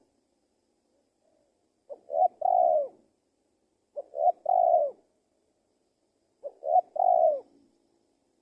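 Male spotted dove (tekukur) cooing, three calls about two seconds apart, each a quick pair of short notes followed by a longer coo.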